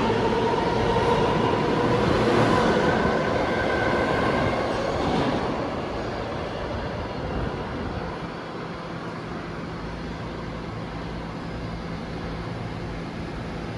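New York City subway train moving along the station track: its motors whine slightly higher in pitch over the rumble of the wheels, then fade away over the first five or six seconds. A steady low station hum is left behind.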